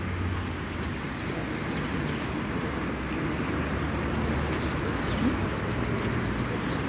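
A small songbird singing several short runs of quick, high, descending chirps over steady outdoor background noise with a low rumble.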